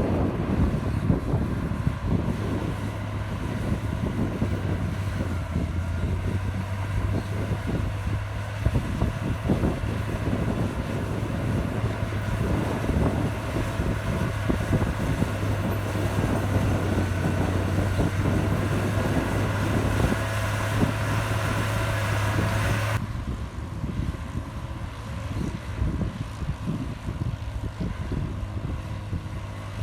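Heavy diesel engine of a Komatsu bulldozer working, a steady low drone with a rough rumble and wind buffeting the microphone. About three-quarters of the way through, the higher hiss cuts off suddenly and the sound turns quieter and rougher.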